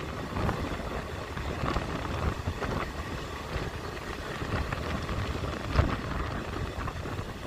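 Passenger train running at speed, heard from beside the coach: a steady rumble of wheels on the rails mixed with rushing wind, with a few short knocks, the loudest about two thirds of the way through.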